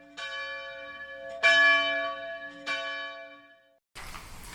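A bell tolling: three strokes about a second and a quarter apart, the middle one loudest, each ringing on and fading. The ringing cuts off abruptly shortly before the end, leaving faint room noise.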